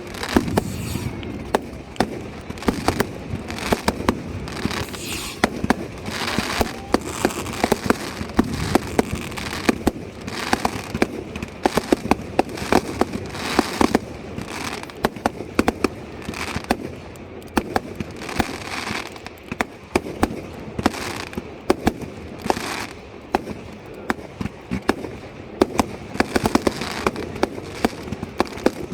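Fireworks display going off continuously: many sharp bangs at irregular intervals over steady crackling.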